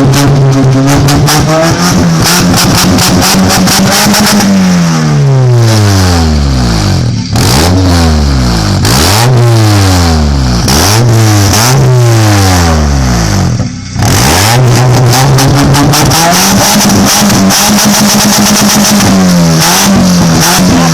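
Vehicle engine revved hard through a loud 'Gatling' exhaust, with a dense rapid crackle from the exhaust. It is held at high revs for a few seconds, then blipped up and down several times, and held high again near the end.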